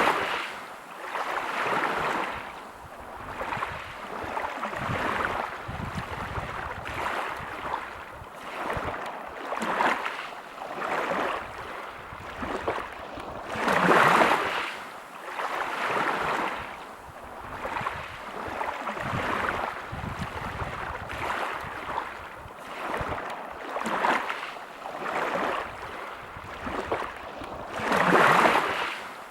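Sea waves breaking and washing over a pebble beach, the surf rising and falling every second or two, with three larger waves: one at the start, one about halfway through and one near the end.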